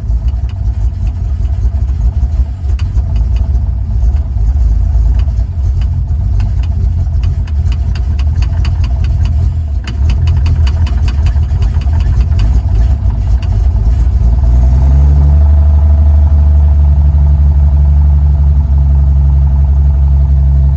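1953 Chevrolet 3600 pickup's straight-six engine running on throttle, uneven and ticking at first, then picking up about three-quarters of the way through and running steadier and louder, with the gas pedal held down. The engine is being coaxed back to life after long storage, with a doubtful fuel supply.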